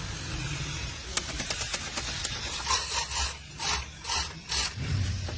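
A quick run of clicks, then four or five hissing rubbing or scraping strokes about half a second apart.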